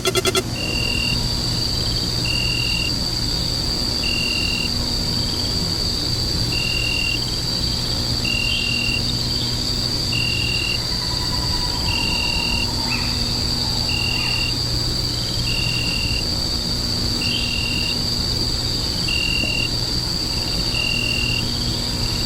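Night ambience of crickets and insects: a steady high insect drone with a short chirp repeating about every one and a half seconds, over a low steady hum.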